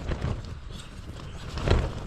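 Wind gusting against the tent and the microphone, a steady low rumble, with a few short knocks, the loudest about three-quarters of the way through.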